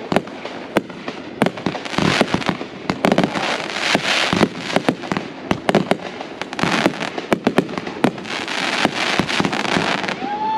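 Aerial fireworks display overhead: a rapid, continuous string of sharp bangs and crackles from bursting shells and crackling stars.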